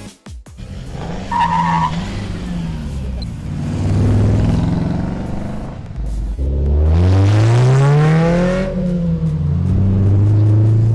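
Car engine revving hard: a first swell, then a long climb in pitch about halfway through with a hissing rush over it, easing to a steady higher drone near the end.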